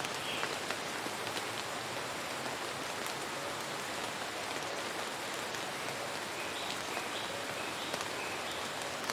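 Steady rain falling, an even hiss with the patter of many small drops.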